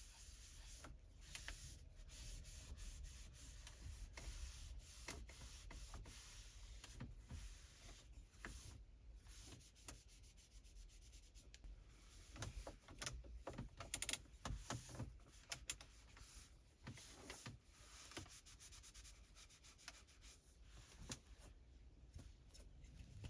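Microfiber cloth rubbing and wiping over car interior surfaces in soft, irregular strokes.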